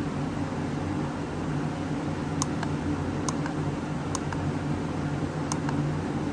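Four short clicks of buttons being pressed on a handheld battery tester while it is set for a 300 cold-cranking-amp standard test. They come about a second apart, starting a little over two seconds in, over a steady low hum like a fan.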